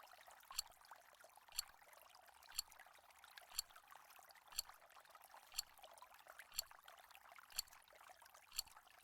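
Countdown timer sound effect ticking once a second, a short sharp tick each time, over a very faint hiss.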